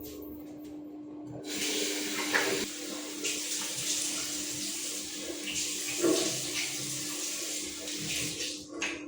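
Water running from a tap into a sink, turned on about a second and a half in and off near the end, with a couple of light knocks while it runs.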